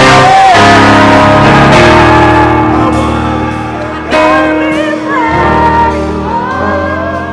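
Live worship song: voices singing over held chords with guitar, the music slowly getting quieter.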